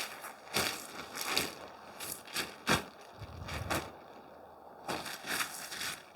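Tent fabric rustling and scraping in irregular bursts as it is handled, with one sharp click about two and a half seconds in.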